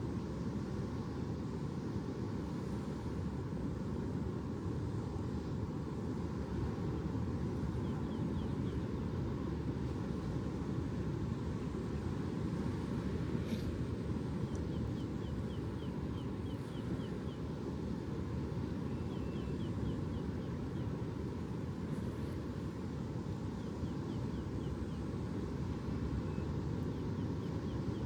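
Steady low rumbling outdoor ambience with no swells, with faint runs of quick high chirps now and then and a single click about halfway through.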